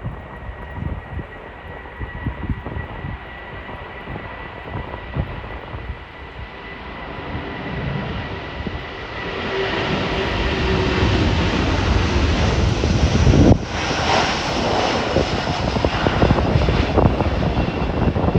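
Airbus A330-900's Rolls-Royce Trent 7000 turbofan engines on takeoff: a steady whine at first, growing louder from about eight seconds in into a loud, wide rush of jet noise as the airliner passes. Wind buffets the microphone throughout.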